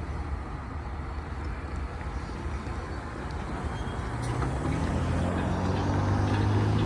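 Diesel locomotive engines running with a steady low drone; about four seconds in, a deeper engine note comes up and grows louder, as if the engines are loading up or drawing closer.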